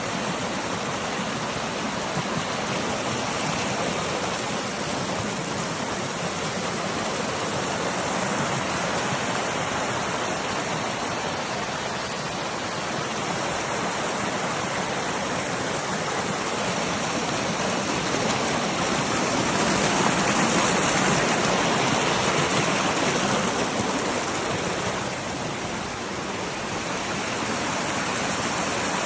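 Steady rushing of flowing water, swelling somewhat louder about twenty seconds in and easing back a few seconds later.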